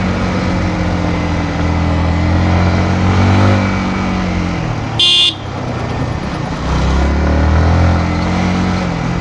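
Yamaha MT-15's single-cylinder engine running at low speed in slow traffic, its pitch sagging as it eases off. A short, high horn toot sounds about five seconds in, and the engine grows louder again a couple of seconds later.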